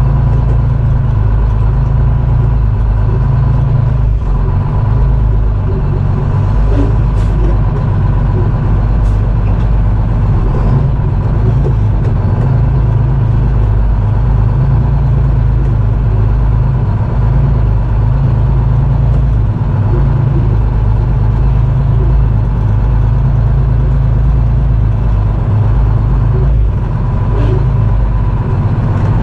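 Detroit Diesel engine of a GMC Crackerbox semi truck running steadily: a loud, even low drone with a faint steady high whine above it.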